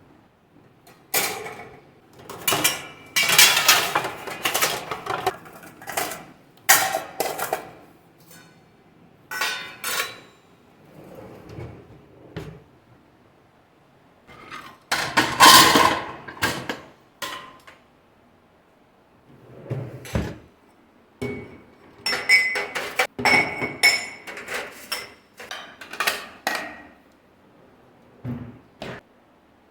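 Household objects being handled: irregular clinks, knocks and clatters of dishes and utensils, in scattered bursts with short quiet pauses between.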